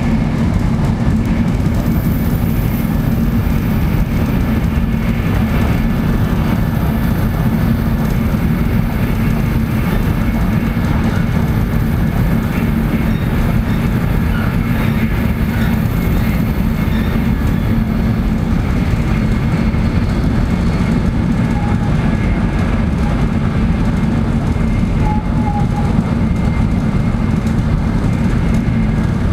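Shinkansen bullet train running at speed, heard from inside the passenger car: a steady, loud rumble of wheels and air with a constant low hum.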